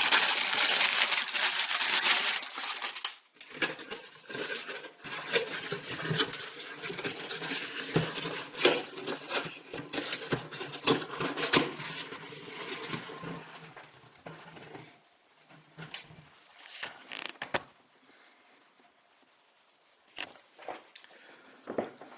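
Packaging wrapped around a metal hurricane lantern rustles and crinkles loudly for about three seconds. After that come many light clicks and knocks as the lantern is handled, thinning out to a few faint clicks.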